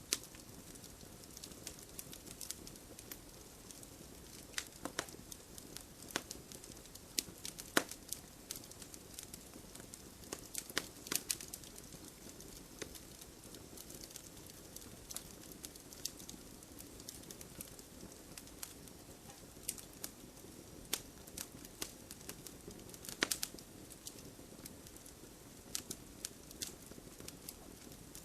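Wood fire crackling: irregular sharp pops and snaps from burning logs, a few every second, over a steady low hiss of flame.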